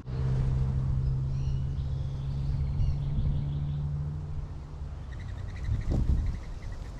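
A steady low motor hum that fades out about four and a half seconds in. Birds chirp over it and again near the end, above a constant low outdoor rumble.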